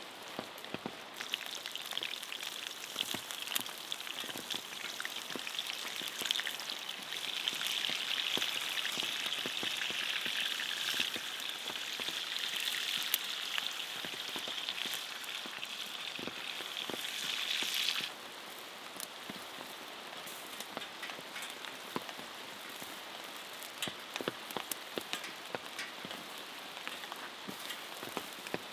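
Steady rain pattering, with many scattered drop ticks. Over the first two-thirds a louder sizzling hiss of food cooking over the fire sits on top, and it cuts off abruptly about 18 seconds in.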